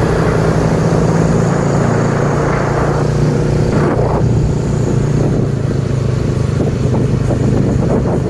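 Truck engines running steadily: a low, even engine drone with road noise.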